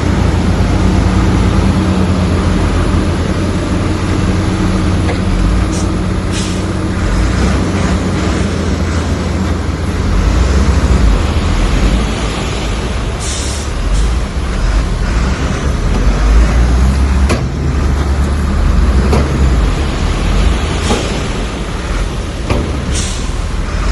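Heavy diesel earthmoving machinery running steadily with a deep low rumble, broken by a few short hisses and occasional metallic knocks.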